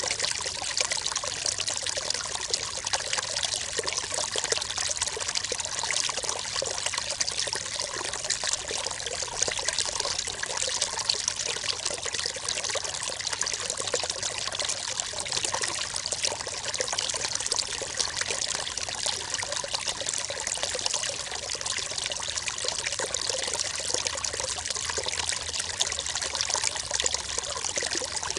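River water running steadily over stones: a continuous babbling and trickling rush, brightest in the upper range, with no change in flow.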